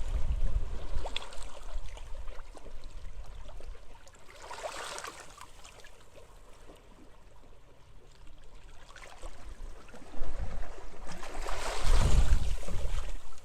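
Sea waves washing onto a beach, swelling about four seconds in and again near the end, with wind gusting over the microphone as deep rumbles at the start and toward the end.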